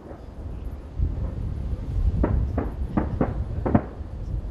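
Distant aerial firework shells bursting: five sharp bangs in quick succession starting a little past two seconds in, over a steady low rumble that builds from about a second in.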